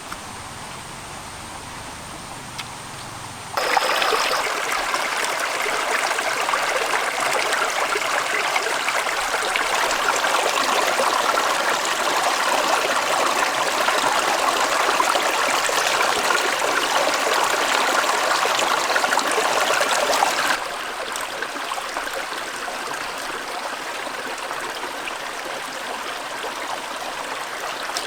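Running water from a stream, a steady rushing hiss that turns abruptly louder about three and a half seconds in and abruptly quieter again about twenty seconds in.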